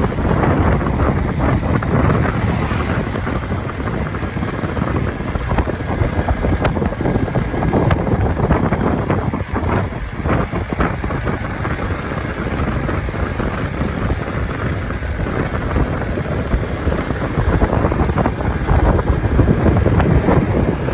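Wind buffeting the microphone of a moving motorcycle, a loud steady rumble that flutters throughout.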